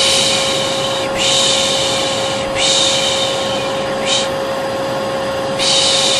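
Hair dryer running steadily with a constant whine, overlaid by repeated long 'shh' shushing sounds, each about a second long, one after another. Together they form a soothing white-noise track for a colicky baby.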